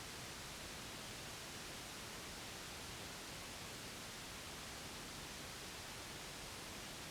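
Steady white noise, an even unchanging hiss of the kind played to soothe a baby to sleep.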